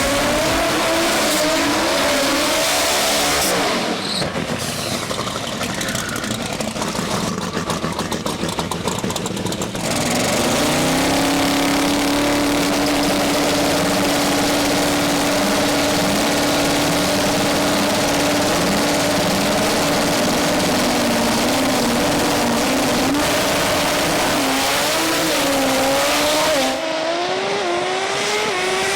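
Drag-racing engine, the twin-turbo small-block Ford V8 of a Ford Lightning pickup, running at high revs. Its pitch rises in the first few seconds and again near the end, with a rougher, choppy stretch before a long steady high note in the middle.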